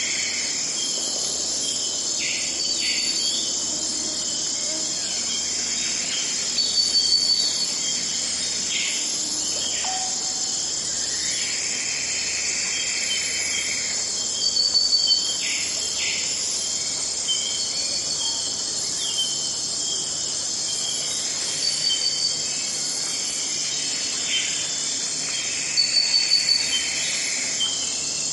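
Forest ambience: a steady high-pitched insect chorus of crickets, with birds calling intermittently over it and a few brief bursts of rapid chirping.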